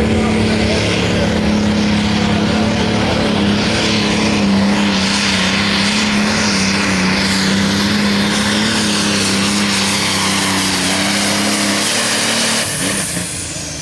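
A Light Pro Stock pulling tractor's turbocharged diesel engine running flat out under load, loud and steady in pitch, while it pulls the sled. Near the end the engine drops off and a high whine falls away in pitch.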